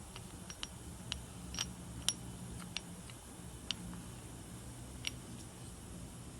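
Honda Live Dio (AF34) 50cc two-stroke scooter engine idling with a low steady hum, and sharp ticks coming at irregular intervals, about a dozen in six seconds: the abnormal engine noise being checked.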